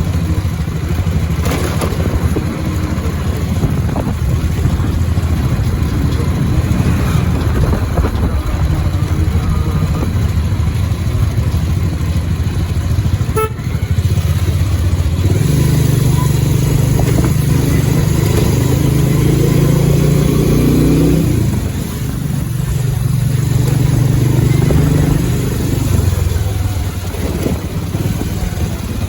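Motorcycle engine running while riding, the Pulsar 150's single-cylinder engine, with steady noise throughout. About halfway through it pulls up in pitch as the bike accelerates, drops back near 21 seconds, then rises again.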